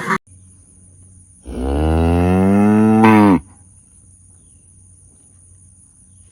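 A cow mooing once: a single call of about two seconds that rises in pitch.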